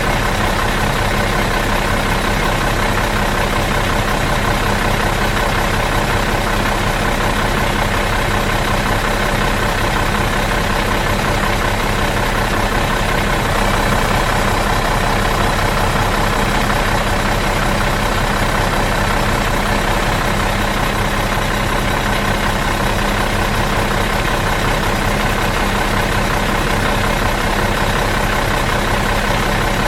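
Bus engine idling steadily out of gear, an even unchanging hum.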